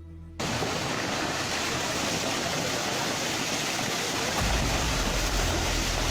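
A loud, steady rushing noise of storm wind and water starts abruptly just after the start, with a deep rumble joining about four seconds in.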